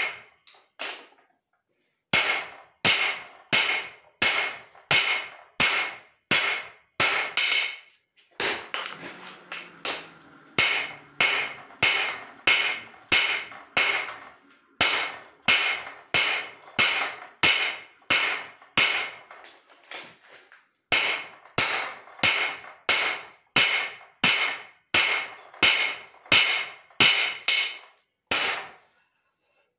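Hand hammer striking steel on an anvil in steady runs of about two blows a second, each blow with a short metallic ring. The work is forging a cleaver from leaf-spring steel. The blows pause briefly about a second in and stop shortly before the end.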